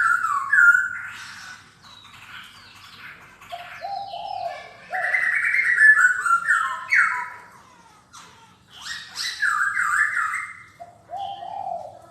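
Black-throated laughingthrush singing: a long run of loud, varied whistled phrases, some low and some higher, with a short lull about eight seconds in.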